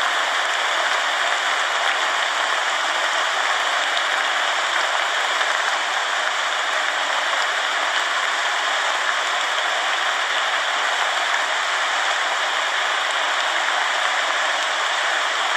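Steady rain falling, an even, unbroken hiss of drops without thunder or other events.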